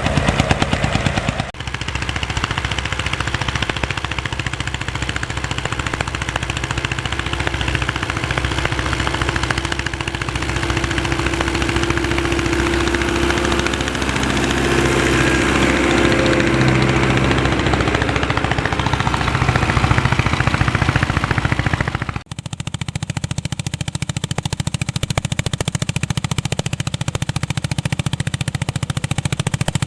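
Vintage tractor engines running under ploughing load, the exhaust firing in a fast, even train of sharp pops over a low engine drone. The sound breaks off abruptly twice, and for a few seconds in the middle a steadier engine note rises and falls over the popping.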